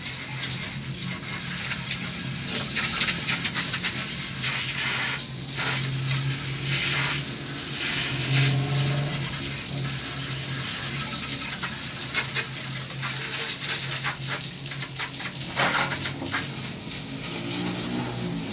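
Brush scrubbing over the window air conditioner's parts: an uneven scratchy hiss that goes on without a break, over a steady low hum.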